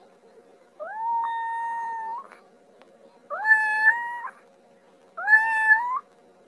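Domestic cat meowing three times, about a second apart. Each meow is drawn out, rising in pitch at the start and then held level. The first is the longest, at over a second.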